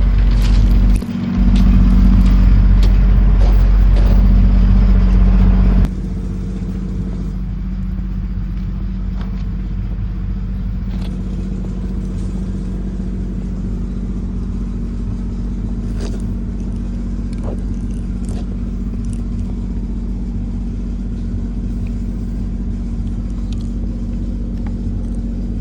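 A 1/8-scale ride-on locomotive running, with a steady low drone. A heavy low rumble over it cuts off suddenly about six seconds in, and a few faint clicks come later.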